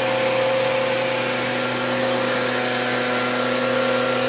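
Vacuum cleaner motor running steadily at full speed, a loud, even whine over a rushing hiss.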